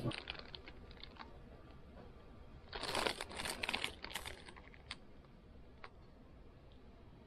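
Plastic food packaging crinkling and tearing as it is handled and opened: scattered small clicks, with a louder burst of rustling about three seconds in.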